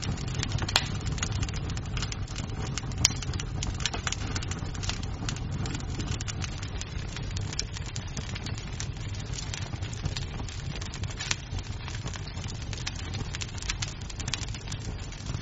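Wood fire crackling in a fireplace: a steady low rumble of burning, with frequent small snaps of wood and a couple of louder pops about a second and three seconds in.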